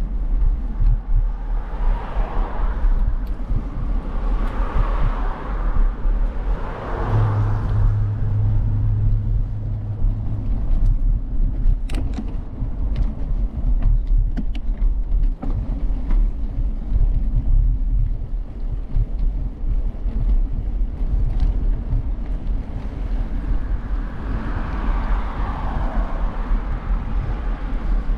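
Steady low rumble of wind buffeting the microphone of a bike-mounted camera while riding, with traffic noise swelling twice, once near the start and once near the end. A low steady hum joins for a few seconds early on, and a few sharp clicks come in the middle.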